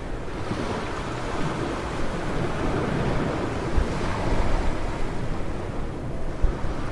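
Ocean surf washing steadily onto a beach, with wind rumbling on the microphone and a couple of low gust thumps in the second half.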